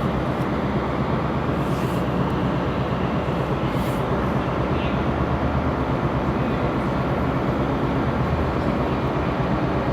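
A train's engines running steadily: an even low hum, with a few faint clicks about two and four seconds in.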